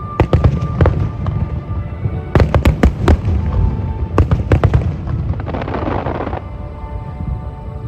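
Aerial fireworks bursting in rapid clusters of sharp bangs, three volleys in the first five seconds, then a denser crackle about six seconds in, with music playing underneath.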